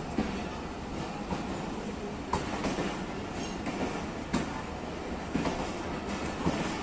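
Passenger coaches of a departing train rolling past, with a steady rumble and the wheels clacking over rail joints every second or so.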